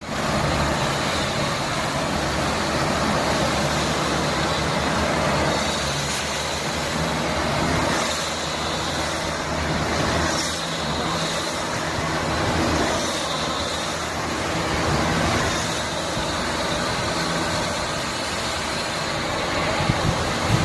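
A steady mechanical drone with a low engine-like hum and a broad hiss over it, running evenly without a break.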